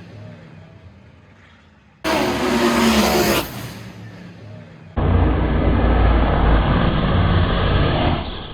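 Street-race cars at full throttle, heard in several cut-together clips. A fading pass gives way about two seconds in to a sudden loud pass whose engine note drops in pitch. About five seconds in, a muffled recording with a heavy low engine rumble takes over.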